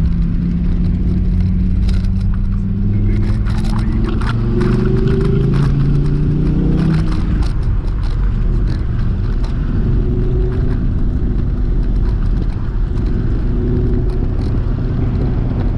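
Dodge Viper SRT's 8.4-litre V10, heard from inside the cabin, with its note rising steadily under acceleration for about seven seconds, then dropping suddenly and running steadier at lower revs.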